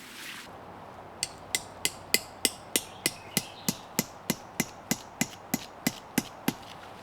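A steady run of about eighteen hammer blows, roughly three a second, starting about a second in and stopping near the end.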